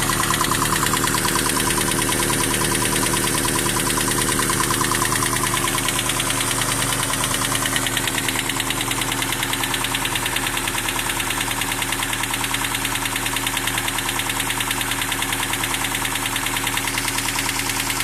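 1992 Toyota Hilux's 22R inline-four engine idling steadily with a rapid, even clicking in time with the engine, a noise whose cause the owner does not know.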